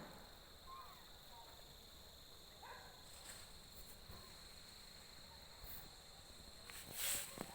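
Faint, steady high-pitched insect trill, with a few soft short chirps and a brief rush of noise near the end.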